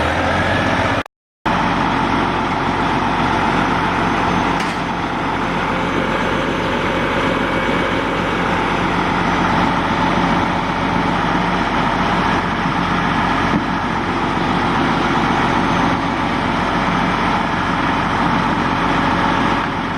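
A heavy vehicle's engine running steadily, with a constant hum; the sound cuts out for a moment about a second in.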